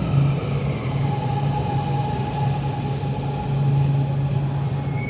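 Shenzhen Metro train running into the station, with a steady low hum and a steady whine that comes in about a second in.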